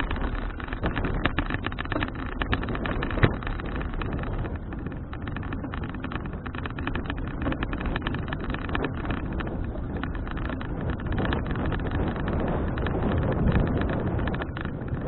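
Wind buffeting an action camera's microphone on a moving folding bicycle: a steady rush with frequent small rattling clicks from the bike.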